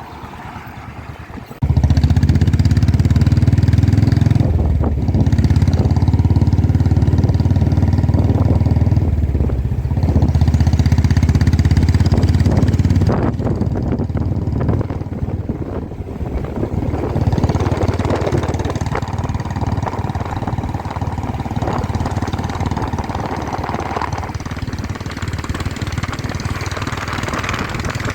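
Motorcycle engine running on the move. The sound jumps up sharply about two seconds in and drops somewhat after about thirteen seconds.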